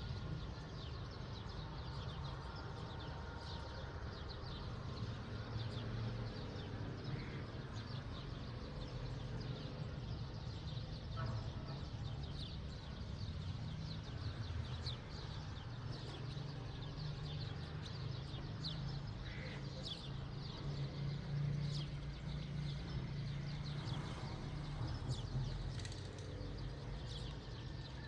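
Small birds chirping, many short quick calls scattered throughout, over a steady low rumble.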